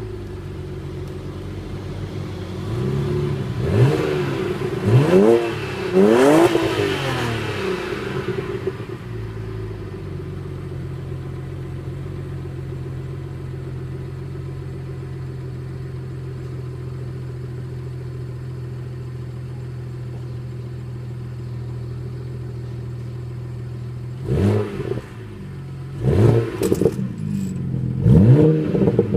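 BMW 335i's N54 twin-turbo straight-six with its stock exhaust idling steadily, blipped several times in quick succession near the start and again near the end, the revs rising sharply and falling back to idle each time.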